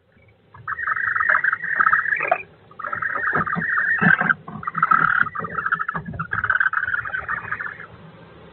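Female kestrel calling inside the nest box: four long, buzzy, rapidly pulsing calls in quick succession, loud and close.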